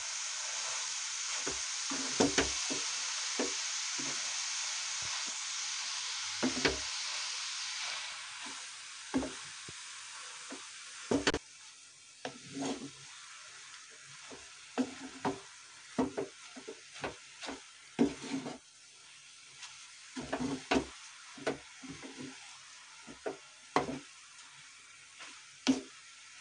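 Grated carrots sizzling as they are roasted in ghee in a non-stick kadhai, while a wooden spatula stirs them and knocks and scrapes against the pan at an irregular pace. The sizzle is strong at first and dies down after about ten seconds, leaving mostly the spatula's knocks and scrapes.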